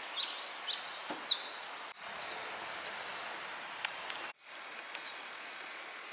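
Birds chirping: short, high, slightly falling notes in small clusters, loudest about two seconds in, over a steady outdoor hiss.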